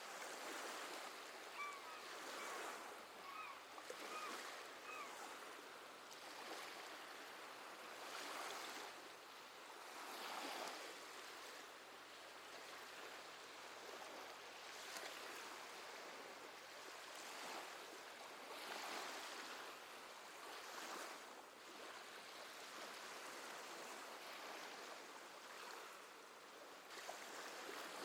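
Gentle sea waves washing ashore, swelling and easing every few seconds. A few short seabird calls sound within the first few seconds.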